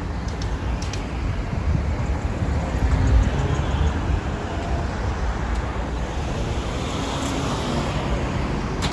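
Steady low rumble and noise of a moving vehicle, heaviest in the low end, with a few faint clicks.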